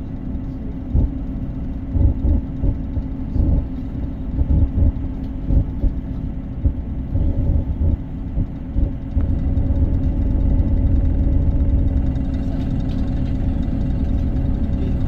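Diesel multiple unit train running: a steady engine drone and low rumble with irregular thumps from the wheels on the track, getting louder about two-thirds of the way through.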